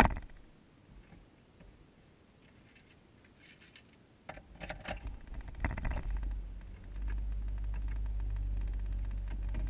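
A few clicks and rattles, then a car engine starting up and settling into a steady low hum for the last few seconds.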